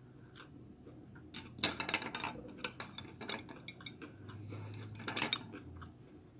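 Dishes and utensils clinking and clattering: a run of sharp knocks lasting about four seconds, loudest near the start and again near the end.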